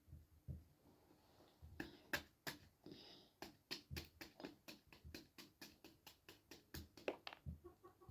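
A quick, even series of light taps or knocks, about four a second, starting after a few scattered clicks.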